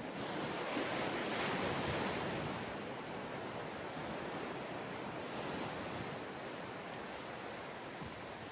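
Sea waves breaking and washing up on a sandy beach: one swell of surf about a second in that slowly fades as the water runs back.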